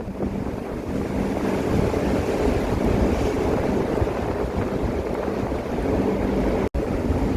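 Storm wind buffeting the microphone over heavy seas breaking and washing around a ship, a dense low rumble with a faint steady hum beneath. The sound drops out for an instant about two-thirds of the way through.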